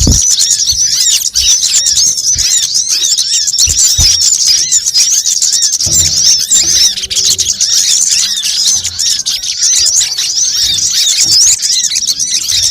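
Sunbirds calling in a dense, unbroken chorus of fast, high-pitched chirps and twitters, many overlapping, played as a bird-lure recording. A few soft low thumps sound under it.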